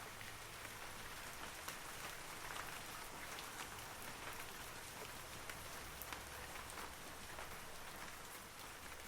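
Steady rain falling on forest trees, a constant patter with many individual drops ticking through it.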